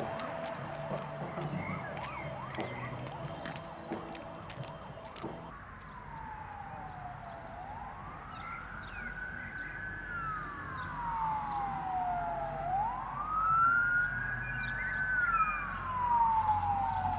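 Emergency-vehicle siren wailing, its pitch sweeping slowly up and down in two long cycles starting about five seconds in and cutting off abruptly at the end. Before it, a steady tone over a low engine rumble with scattered clicks.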